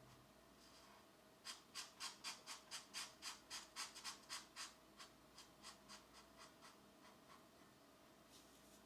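Coloured pencil shading on paper in quick back-and-forth scratchy strokes, about four a second, that turn fainter about halfway through and stop.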